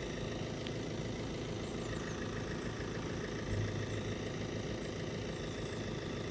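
Road vehicle engines idling steadily, with a brief low swell about three and a half seconds in.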